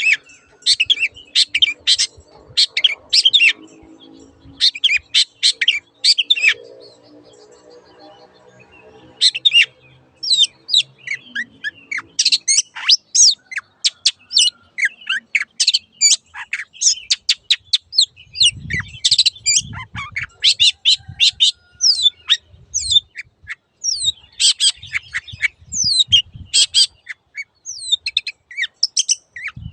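Long-tailed shrike singing: rapid bursts of sharp, chattering high notes, each burst lasting one to two seconds, with short pauses between them.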